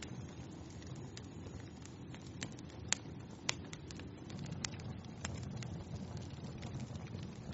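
Wood fire burning in a fireplace: a steady low rush of flames with irregular sharp crackles and pops, two louder pops about three and three and a half seconds in.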